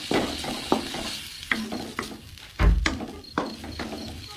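A spatula stirring a pan of reheating stir-fry with broth, the food sizzling, with sharp clicks of the spatula against the pan. A heavier knock a little past the middle is the loudest sound.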